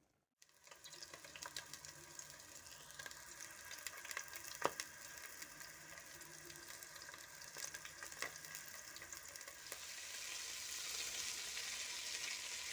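Food sizzling in hot oil in a pan, with scattered light clicks; the sizzle grows louder about ten seconds in.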